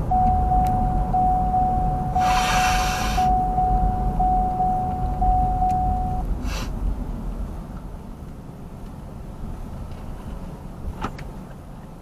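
Car cabin noise while driving, with a steady electronic warning tone from the car that pulses about every two-thirds of a second for the first six seconds. A hiss of about a second comes two seconds in, and the road noise drops off in the second half.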